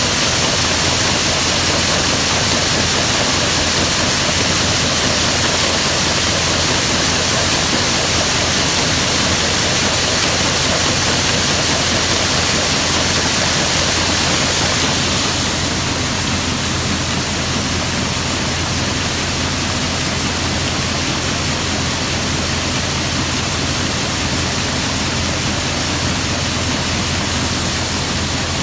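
An engine running steadily under a loud, even rushing noise; the hiss eases a little about halfway through.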